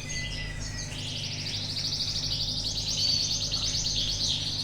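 Domestic canary singing a long run of rapid trilled notes, starting about a second in, over a steady low hum.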